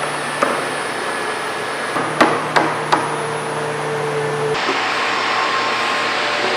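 A steady machine hum with a hiss, broken by a few sharp knocks, three of them close together a little past two seconds in.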